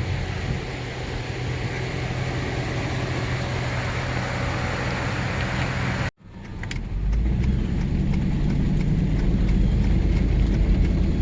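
A car's engine and tyres running steadily while driving, heard from inside the vehicle. About six seconds in the sound cuts off sharply and resumes as a lower, steadier rumble.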